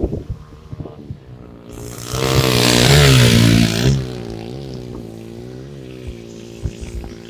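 A small engine running steadily, its pitch wavering slightly, with a loud wash of breaking surf about two seconds in that fades a couple of seconds later.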